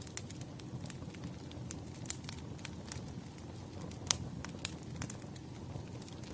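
Wood fire crackling: irregular sharp pops and snaps over a low, steady rumble of the burning logs, with one louder pop about four seconds in.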